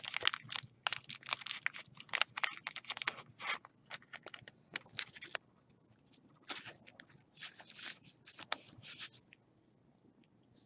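Trading cards and their wrapping being handled: a quick run of short crinkling, tearing strokes for about the first five seconds, then a few scattered rustles that die away near the end.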